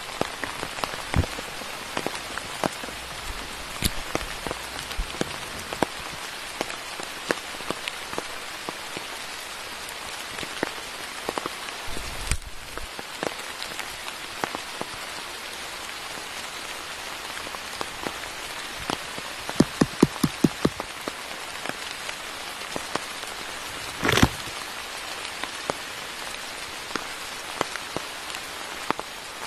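Steady rain falling in a forest, with scattered sharp drip ticks. A quick run of ticks comes about two-thirds of the way through, and a single louder knock follows a few seconds later.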